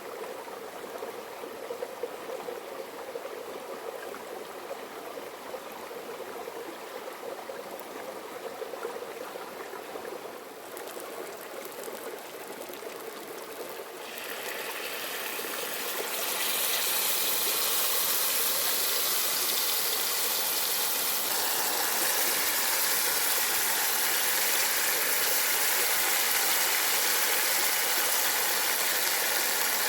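Food frying in a pan outdoors: a quieter sizzle with scattered crackles that grows, about halfway through, into a louder, steady sizzle.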